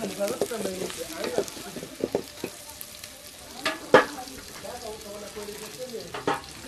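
Meat and green pepper frying in a metal pot over a wood fire, sizzling while a wooden spoon stirs and scrapes against the pot. Two sharp knocks stand out, the loudest about four seconds in and another near six.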